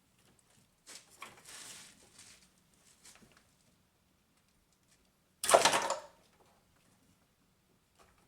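Faint handling and rustling noises from engine parts and tools being worked by hand, then one short, loud clatter about five and a half seconds in.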